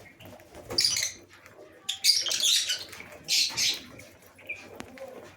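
A flock of lovebirds giving shrill, harsh chattering calls in three loud bursts: one about a second in, a longer one around two seconds, and one just past three seconds, with quieter chatter between.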